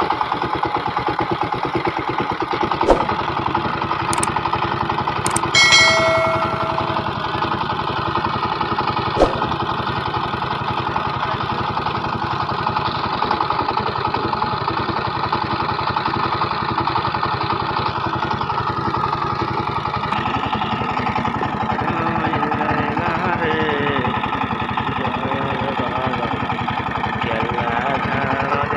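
Single-cylinder diesel engine of a SIFANG power tiller running steadily with an even, rapid chugging pulse. A few sharp clicks come in the first ten seconds, and a short high-pitched tone comes about six seconds in.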